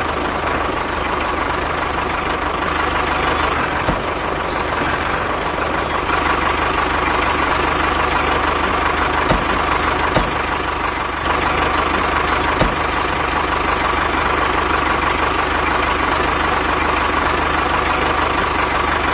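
Tractor engine running steadily, a little louder from about eleven seconds in.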